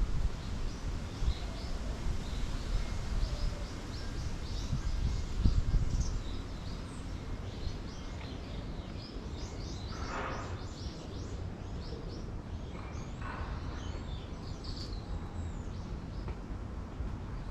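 Several small birds chirping and twittering in many short high calls, denser in the second half, with a few longer, lower calls mixed in. Under them runs a low steady rumble, heaviest in the first few seconds.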